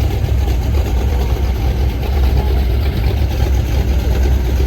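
Vintage car engine idling close by: a steady, loud low rumble.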